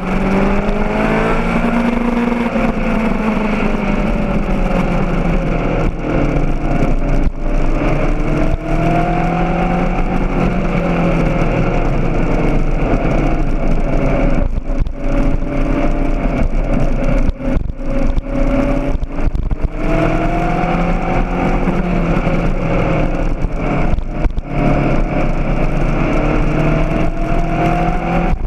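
Honda CBR600RR's inline-four engine running under way, its pitch climbing and falling several times as the bike accelerates and eases off, with wind rushing over the microphone.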